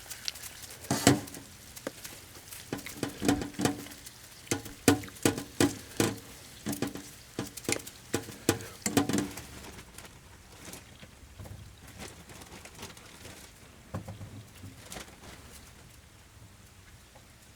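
A run of sharp, irregular knocks and taps, about two a second, stopping after about nine seconds and leaving only faint scattered ticks.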